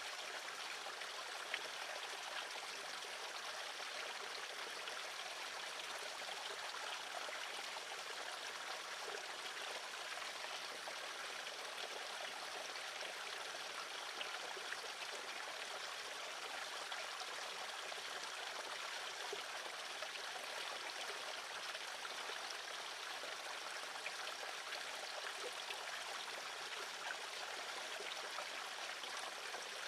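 Steady, even rushing noise of running water, with a few faint ticks.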